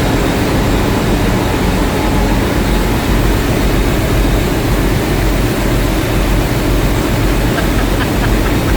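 Loud, steady machinery noise of a ship's engine room, a dense low din with a faint hum of steady tones running through it.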